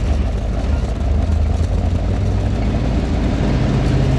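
Tow truck's engine running while driving, a steady low drone whose pitch steps up about three and a half seconds in as the engine revs higher.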